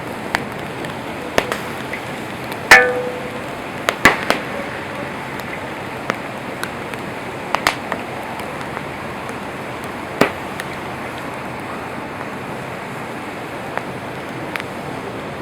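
Wood campfire burning: a steady hiss broken by sharp crackles and pops. The loudest pop comes about three seconds in, a cluster follows about a second later, and another strong pop comes near ten seconds.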